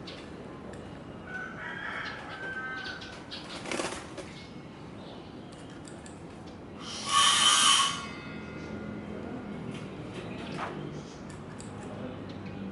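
Birds calling: a short, high call early on and a loud, harsh call lasting about a second, about seven seconds in.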